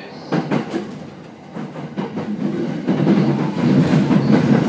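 Running noise heard inside a 70-000 series trailer car: wheels clacking sharply over rail joints about a third of a second in, then the rumble of the bogies growing louder.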